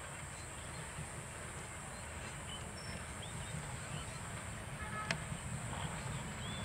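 Distant diesel locomotive hauling a passenger train as it approaches, a low rumble growing louder toward the end, with birds chirping and one sharp click about five seconds in.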